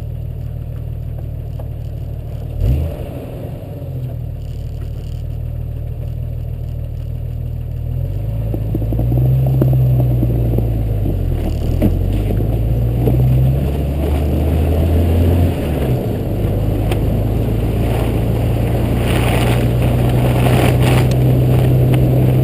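Jeep Cherokee XJ engine running as it drives on snowy roads, with steady tyre and road noise. Its pitch rises and falls between about 8 and 16 seconds in as it speeds up and changes gear, then holds steady at a higher note. One short thump about 3 seconds in.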